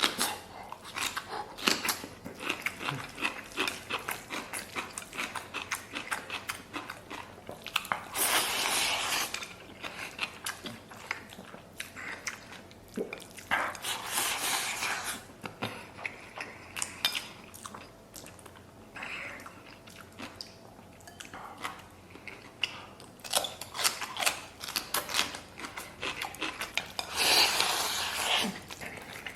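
Close-miked chewing and lip-smacking of rice soaked in braised pork trotter sauce, a run of quick wet clicks, broken three times by longer rustling, scraping noise.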